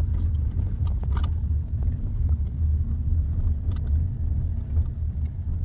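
Steady low rumble of a car driving on a road, heard with faint light ticks over it.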